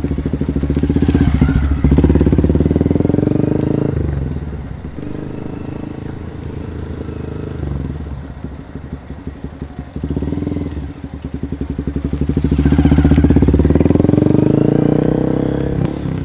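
Motorcycle engine running at low speed, swelling louder twice as it comes close and then falls away.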